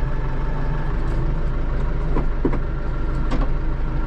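Kubota loader tractor's diesel engine running steadily, heard from inside the cab, with a few light clicks between about two and three and a half seconds in.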